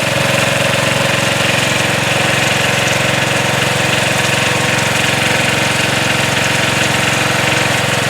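Sears Suburban garden tractor engine running steadily under snow-throwing work, with an even, unchanging note.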